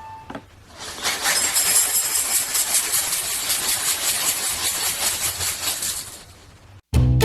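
A harsh, scratchy rasping noise that starts about a second in, runs steadily for about five seconds and fades out.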